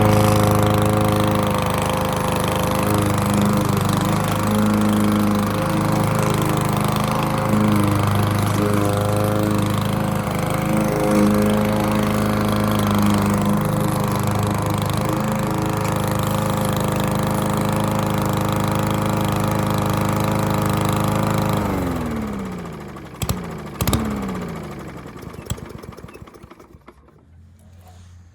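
Remington self-propelled lawn mower's 140cc Powermore overhead-valve engine running at a steady speed, smoothly but with a slight sputter. About 22 seconds in it is shut off and spins down to a stop, with a couple of clicks as it winds down.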